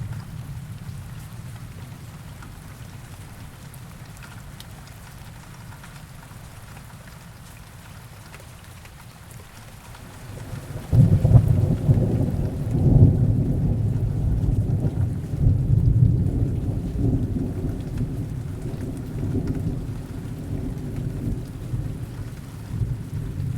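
Steady heavy rain. About halfway through, a long peal of thunder breaks in, loudest at its start, then rumbles on and slowly fades.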